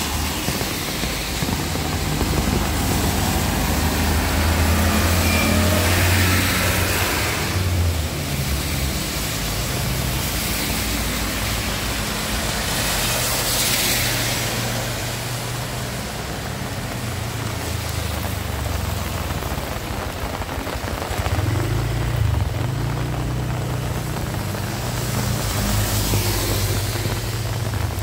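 Heavy rain with motor vehicles going by on a wet road: a low engine note rises and falls as each vehicle passes, and the tyres hiss on the wet surface three times.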